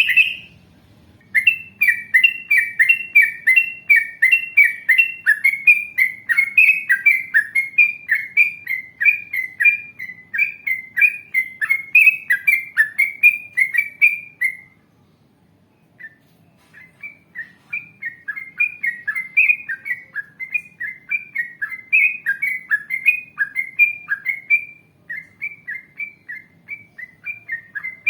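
Yellow-vented bulbul (trucukan) singing a long run of quick repeated chirping notes, about two a second. It breaks off for a couple of seconds about halfway through, then takes up the same run again.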